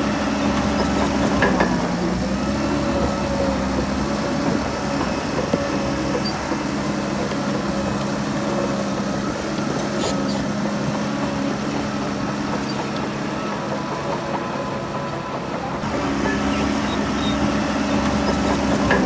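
Heavy diesel engine of earthmoving machinery running steadily, its pitch dipping briefly about a second and a half in and again near the end, with a few sharp clicks midway.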